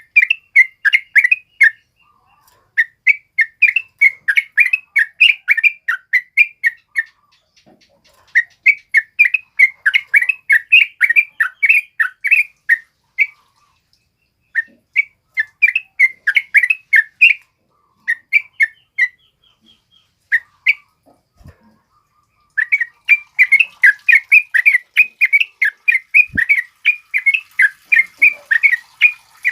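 Yellow-vented bulbul (trucukan) singing loud, rapid chattering phrases of bubbly notes, each run lasting a few seconds with short pauses between. The bird is in continuous full song.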